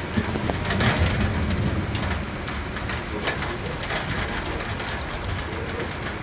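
Steady rain falling, with individual drops hitting surfaces as sharp ticks over a low rumble.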